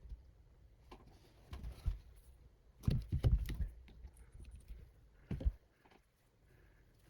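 Small parts of an FPV quadcopter being handled on a workbench: scattered clicks, taps and light knocks, busiest about three seconds in, with one more knock about five and a half seconds in.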